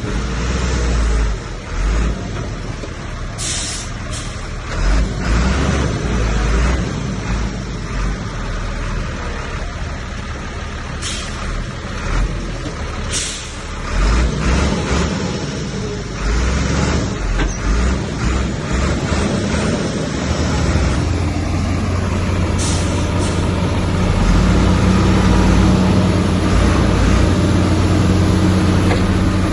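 Diesel engines of heavy earthmoving machinery (bulldozer and dump truck) working, with several short air hisses like truck air brakes. About two-thirds of the way in, an engine settles into a louder, steady drone.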